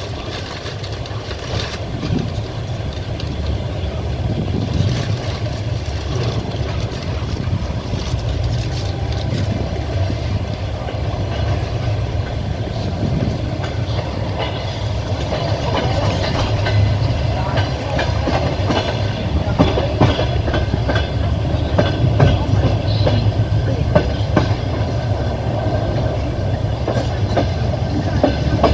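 Passenger train rolling along, heard from inside the carriage: wheels rumbling and clacking over the rail joints, the clatter growing louder as the train gathers speed.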